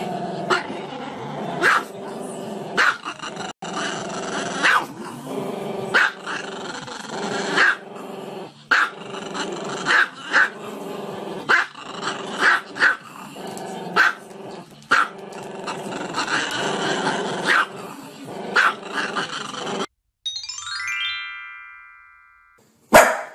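Dog growling with sharp barks roughly once a second, over background music. About twenty seconds in it cuts off abruptly and a falling series of tones plays, followed by one loud bark-like burst near the end.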